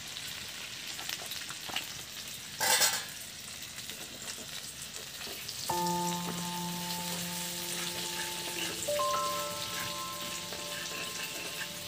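Chicken breast pieces frying in butter in a pan, a steady sizzle, with a brief louder burst about three seconds in. From about halfway, soft background music with held notes plays over it.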